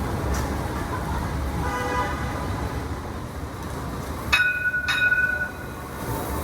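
A light rail tram's horn toots twice about four seconds in, two sharp notes about half a second apart, the second held for about a second. Under it runs a steady low rumble of the tram and street traffic.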